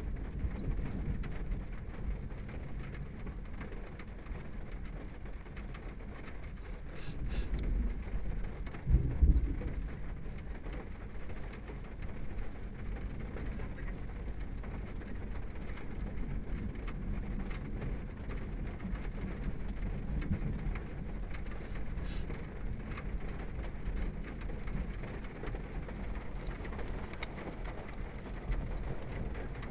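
Rain falling steadily on a car, heard from inside the cabin, with a loud low rumble of thunder about nine seconds in.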